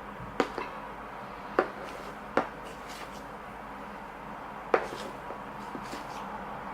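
Glue and shaving gel being mixed into slime in a container, with four sharp, irregularly spaced clicks of the mixing utensil knocking against the container.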